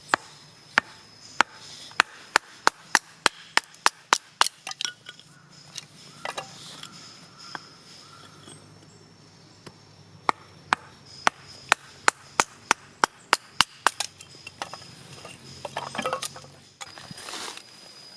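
Firewood being chopped by hand: runs of sharp wooden knocks, about two or three a second, with a pause of several seconds between two runs.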